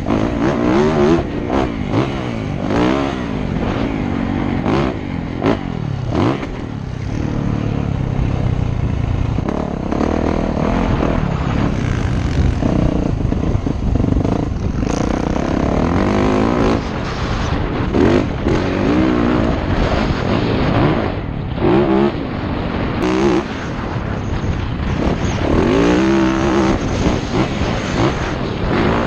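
Motocross dirt bike engine revving up and down over and over as it is ridden round the track, the pitch climbing and dropping with each rise and fall, with rumble and knocks from wind and the rough ground.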